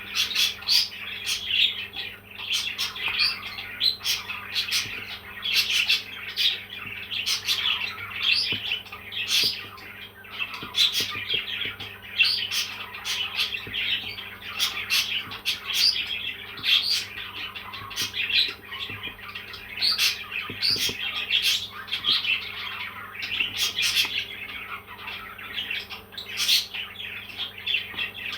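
Parrot chirping and squawking without a break, a rapid run of short, sharp calls.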